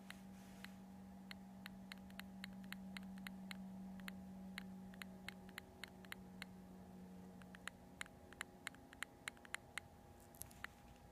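Multistar 2216 v2 brushless outrunner motor making faint, sharp clicks, about three a second, with a short pause a little past halfway; the owner wonders whether a bad bearing is the cause.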